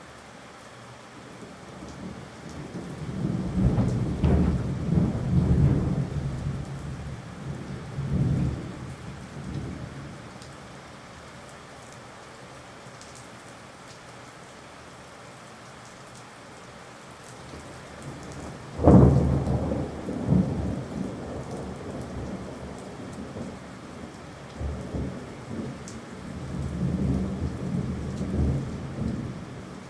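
Steady rain with thunder: a long rolling rumble a few seconds in, a sudden sharp thunderclap about two-thirds of the way through that trails into rumbling, and more rumbling near the end.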